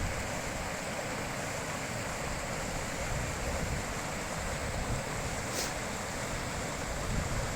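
High-mountain river rushing steadily over its bed: an even, unbroken sound of flowing water.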